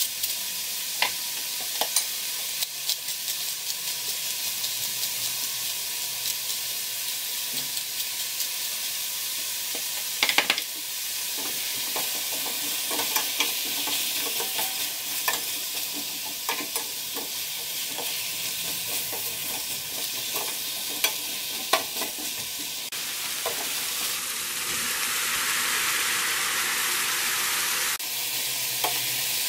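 Zucchini and onion slices sizzling in olive oil in a stainless steel frying pan while being stirred with a wooden spoon, with many light clicks and scrapes of the spoon against the pan and a few sharper knocks about ten seconds in. The sizzle grows louder for several seconds near the end.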